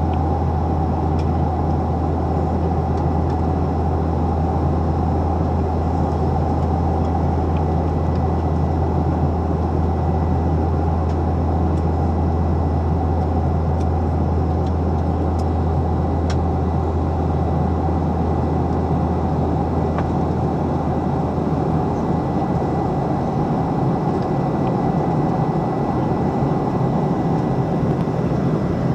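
Steady roar of a Boeing 737's jet engines and airflow heard inside the passenger cabin during the climb after take-off. A deep low hum under the roar fades about 21 seconds in.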